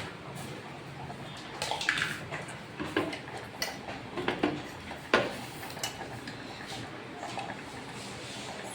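Scattered clinks, knocks and rattles of kitchen utensils as roasted nuts are tipped and spooned into a mixer-grinder jar; the grinder is not yet running.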